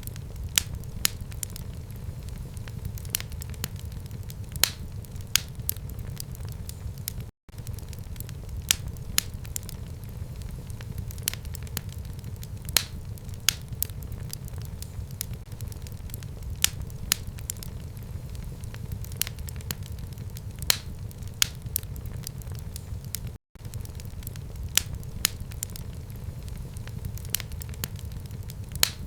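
Wood fire burning in a home fireplace: a steady low rumble of flames with frequent sharp, irregular crackles and pops. The sound cuts out for a split second twice.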